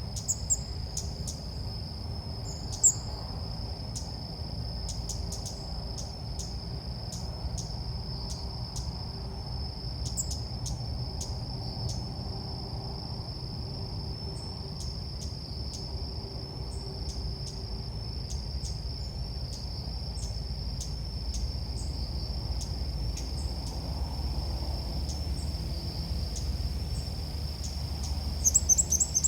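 A steady, high-pitched insect drone with short, high bird chirps scattered over it, a few louder chirps near the start and a quick cluster near the end.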